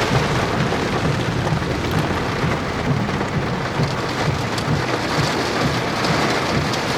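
Heavy rain drumming on a vehicle's roof and windshield, heard from inside the cabin, as a dense steady hiss over a low rumble, with a few faint sharper ticks.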